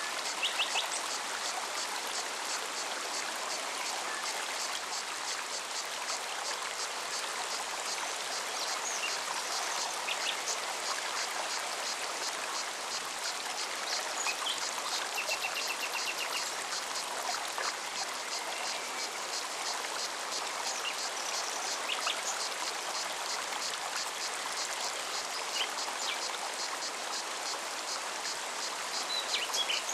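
A forest mountain stream running steadily, with a cicada's rapid, evenly pulsing song over it and a few short bird chirps here and there.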